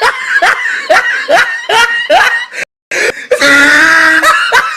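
A person laughing in short rising bursts, then, after a sudden brief cut, a long loud held shout or scream.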